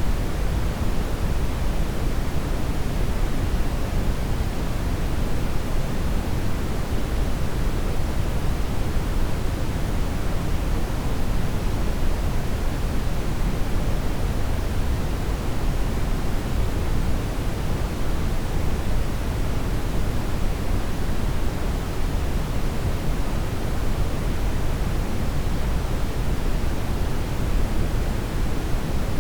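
Steady brown noise: an even, unchanging rush with most of its weight in the deep low end.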